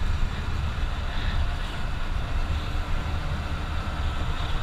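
Steady low wind rumble on a motorcycle rider's camera microphone while riding at about 30 mph.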